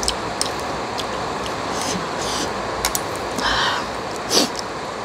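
Heavy rain falling outside, a steady hiss throughout, with light clicks of chopsticks and a spoon against the noodle container and a couple of louder eating noises about three and a half and four and a half seconds in.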